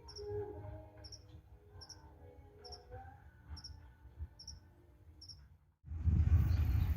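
Cricket chirping in short, regular pulses about once a second, over a quiet rural background with faint calls. About six seconds in, a sudden loud low rumble cuts in.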